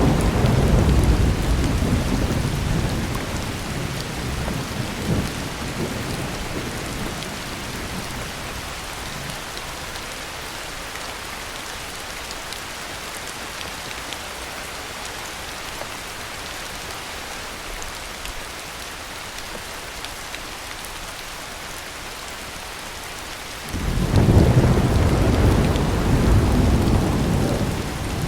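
Heavy rain falling steadily in a thunderstorm. A deep roll of thunder fades away over the first several seconds, leaving the even hiss of the rain, and a new loud thunderclap breaks in suddenly near the end and rumbles on.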